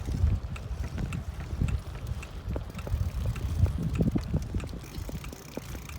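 Wind buffeting the microphone on a moving bicycle, an uneven low rumble, with faint regular ticking from the bike.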